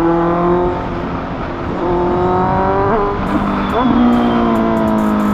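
Honda CBR motorcycle with an SC Project aftermarket exhaust accelerating while ridden, upshifting: the engine note climbs in pitch, then drops at each gear change, about a second, three seconds and four seconds in.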